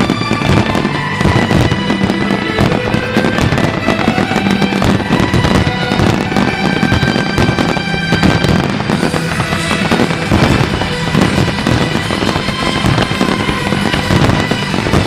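Fireworks going off in a continuous barrage, dense bangs and crackling with no break, over music with held notes.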